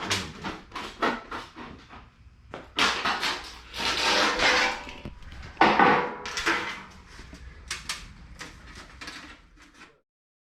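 Irregular knocks and clatter of hard objects being handled, with two longer rasping, scraping noises, one about three seconds in and one about six seconds in. The sound cuts off abruptly near the end.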